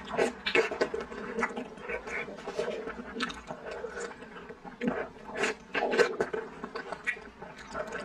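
Chewing and wet mouth noises of someone eating soft, slippery duck blood curd in chili broth: many irregular squishy clicks and smacks.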